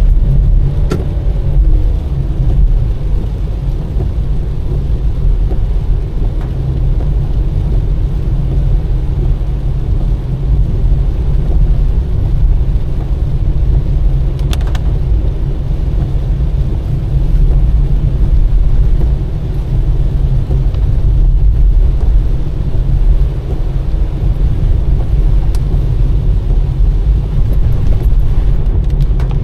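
A car driving along, with a steady deep rumble of engine and road noise and a few faint ticks.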